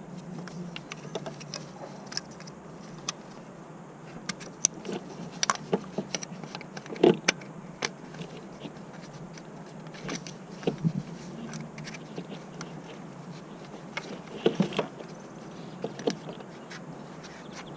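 Scattered light clicks and knocks from hand work on the car, irregular and a few at a time, over a steady low hum.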